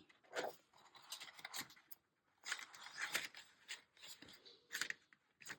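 Scissors snipping paper, a faint run of short, irregular crisp cuts and paper rustles.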